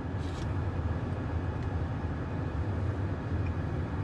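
Steady low engine rumble heard from inside a car.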